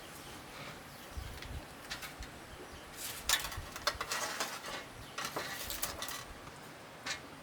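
Rustling and scraping from bamboo shoot bundles being handled and tied, in a cluster of short bursts through the middle, with a few soft low knocks before them.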